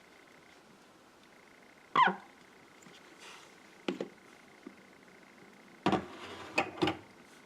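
Handling noises of small containers being moved and set down: a short falling scrape about two seconds in, a double knock near the middle, and a quick run of knocks and clicks near the end.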